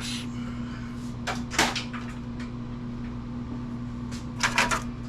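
Several knocks and clunks of the computer's metal case and parts being handled while it is taken apart: a pair about a second in and a quick cluster near the end, over a steady low hum.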